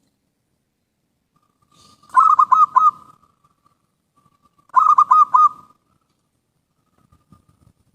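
Zebra dove (perkutut) cooing: two phrases of quick, rolling notes, about two and a half seconds apart.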